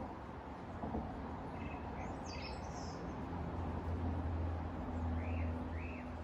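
Small birds chirping in short, scattered notes, with two quick up-and-down calls near the end. Underneath runs a steady low rumble of road traffic that swells in the middle.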